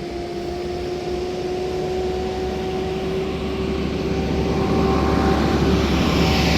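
An engine drone growing steadily louder as it approaches, with a steady hum and a rising rush of noise over it.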